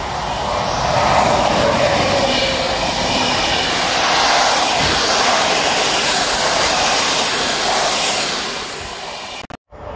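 Train passing close by: a loud rush of wheel and rail noise that builds within the first second, holds steady, then fades away before cutting off abruptly near the end.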